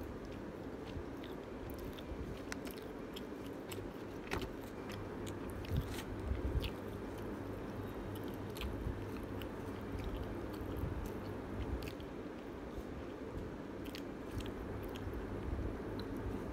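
A person chewing food close to the microphone, with many small wet mouth clicks and smacks scattered irregularly, over a steady low background hum.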